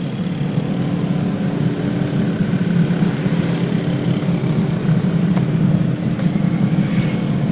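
Steady low drone of a vehicle on the move, with a faint steady hum over it.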